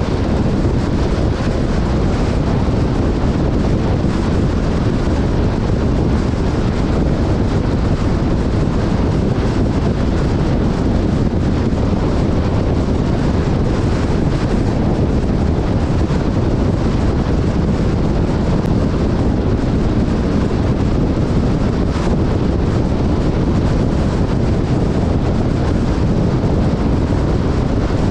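Off-road vehicle driving on desert sand, a steady rumble with wind buffeting the camera microphone.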